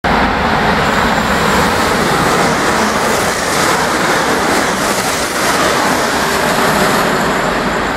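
Electric multiple-unit passenger train passing through the station at speed close by: a steady, loud rush of wheels on rail and air.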